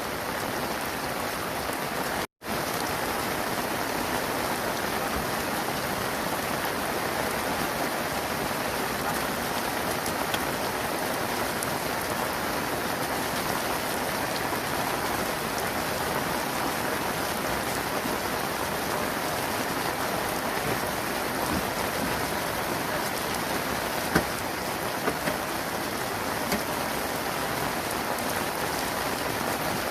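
Steady rain falling, an even hiss, cutting out for an instant about two seconds in, with a few sharper drop taps late on.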